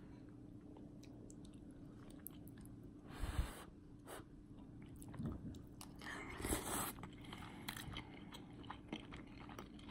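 A person chewing a mouthful of chicken katsu curry close to the microphone, quiet and wet, with two louder noisy bites or crunches about three seconds in and again past the middle. A faint steady hum sits underneath.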